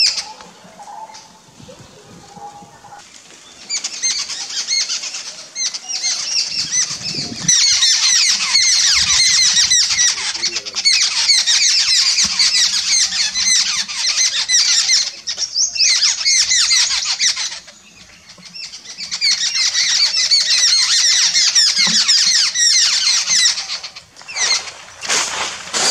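Birds chattering in a dense stream of many short, high calls. The calls are quieter at first, keep up for long spells, and break off briefly about two-thirds of the way through.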